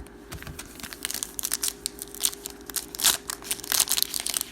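Plastic wrapper of a trading-card pack crinkling and tearing as it is opened: a quick run of crackles that gets louder near the end.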